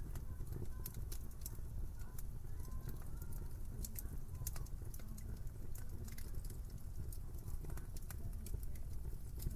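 Wood fire in a fireplace crackling: many sharp, irregular pops and snaps over a steady low rumble of burning.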